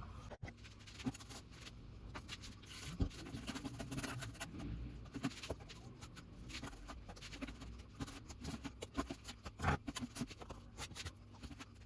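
Masonry work on a stone fireplace: irregular scraping and tapping of a trowel, mortar and stones being handled and set, with a couple of sharper knocks.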